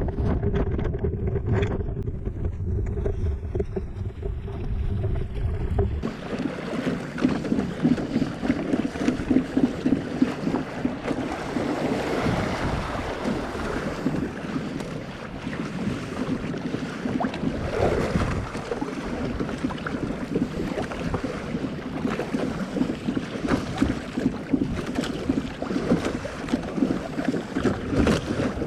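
A Hobie Tandem Island sailing kayak under way, with water rushing and splashing along the hull and wind buffeting the microphone. For the first few seconds a low wind rumble is loudest. About six seconds in, this gives way to a steady rush of water with frequent small splashes.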